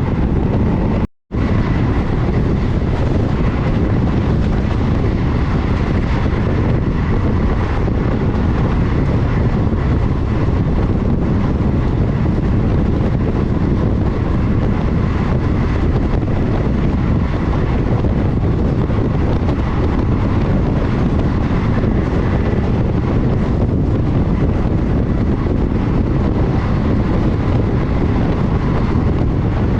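Running noise of a moving passenger train heard from on board: a steady, loud rumble of wheels on rail mixed with wind rushing past the microphone. It cuts out for an instant about a second in.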